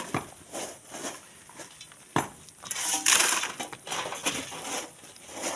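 Shovels scraping and digging into sand and gravel in irregular strokes, with a sharp knock of stone or metal about two seconds in.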